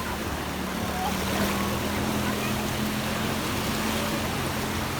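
Sea waves washing on the shore with wind, under a steady low hum from a distant motorboat engine.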